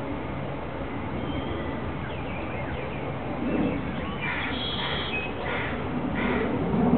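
Wild birds calling over a steady low background rumble: a few thin chirps, then a run of about four short repeated calls from about four seconds in.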